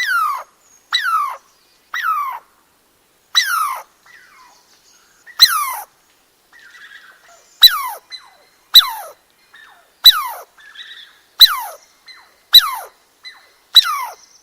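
A squirrel calling over and over, about a dozen short calls roughly a second apart. Each call is a quick whine that falls steeply in pitch.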